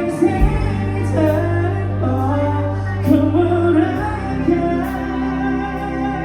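Live bar band playing pop music with a female singer, over held bass notes and regular cymbal hits.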